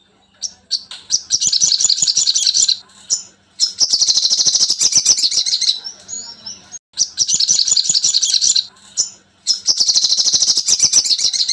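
Sogon bird song from a masteran (song-training) recording: four loud runs of rapid, high-pitched chattering trills with short pauses between them.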